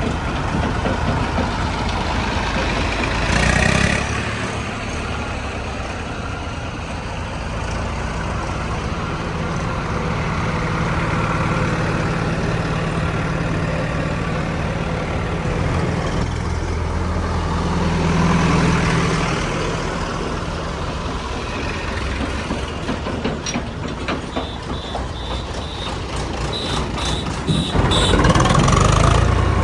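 Heavy diesel machinery running steadily, surging louder briefly twice, once near the start and again near the end. Short high beeps repeat several times just before the end.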